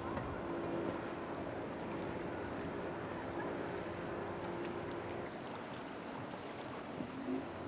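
A boat's engine humming steadily over a wash of wind and surf; the hum fades away about five seconds in.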